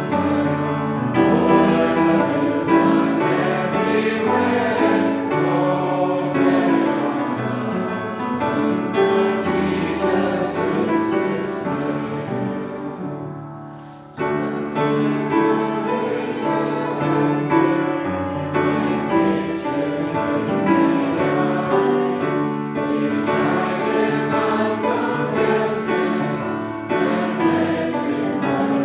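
A congregation singing a hymn together. The singing fades at the end of a verse about fourteen seconds in, then starts again straight away.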